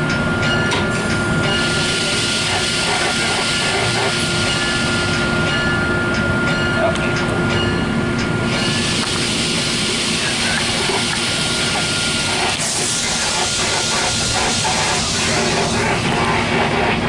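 Running noise inside a moving passenger train car: a steady rumble and hiss, with a faint steady whine that fades out about twelve seconds in. The hiss swells and eases off in stretches.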